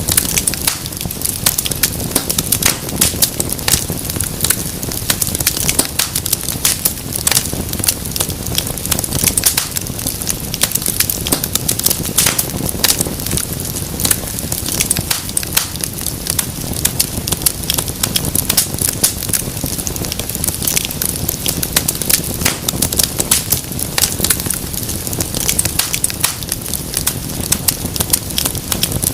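Wood fire in a fireplace crackling steadily: many sharp irregular pops and snaps each second over the low rumble of the flames.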